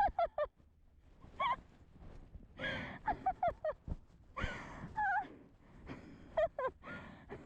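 A person's short gasps and breathy voiced bursts, coming in quick clusters of two to four, several times over.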